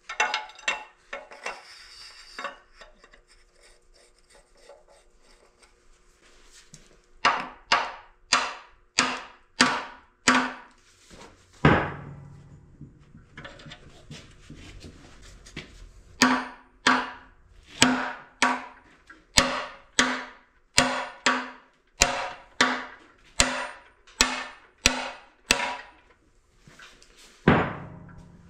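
Hammer blows knocking old bearings out of a CAT D4D engine block. The blows come in runs of about two a second with pauses between them, and each rings briefly.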